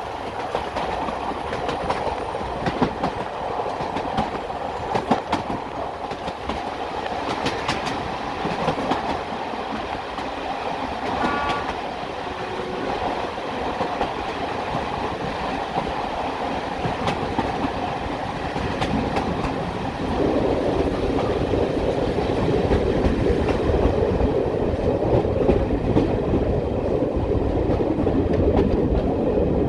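Diesel-hauled heritage train running along the line, its wheels clicking over the rail joints with a steady rumble. The running noise steps up and grows deeper about two-thirds of the way through.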